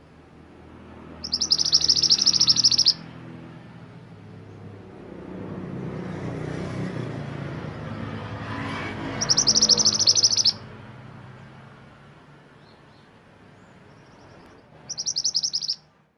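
Mantenan gunung songbird singing three bursts of fast, high chattering trills, the first two about a second and a half long and the last one shorter, near the end.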